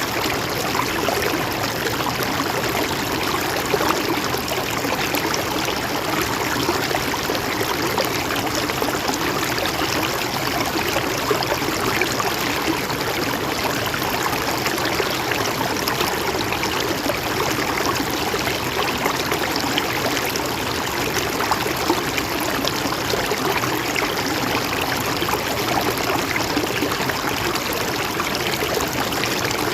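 A small mountain stream running and trickling steadily over rocks.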